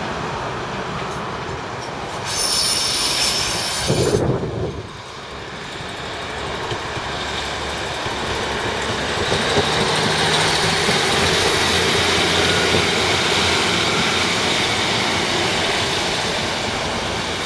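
A Class 150 diesel multiple unit passing close on the track below, its underfloor diesel engines running and wheels rolling over the rails, building to its loudest about ten seconds in. A couple of seconds in, train wheels give a brief high-pitched squeal.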